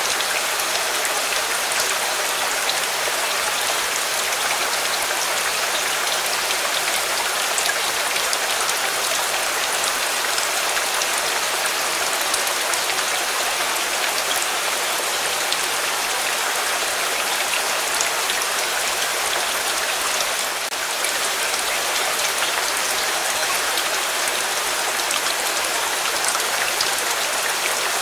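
Steady rain, an even hiss with scattered light ticks.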